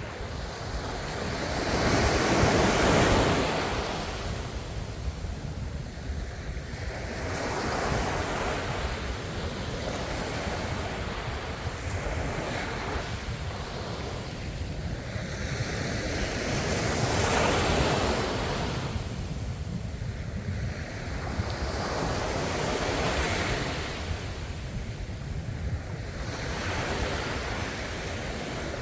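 Ocean waves breaking on the shore in slow, repeated surges that swell and fade every few seconds, the biggest coming about three seconds in and another past the middle, with wind noise underneath.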